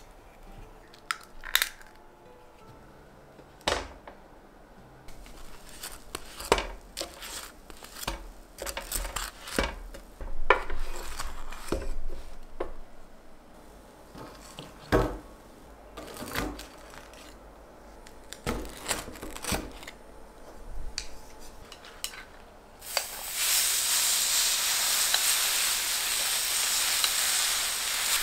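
Kitchen prep sounds: utensils and dishes clinking and knocking in scattered taps. About 23 seconds in, a thin egg, cabbage and carrot mixture starts sizzling on a hot pan and keeps up a loud, steady sizzle.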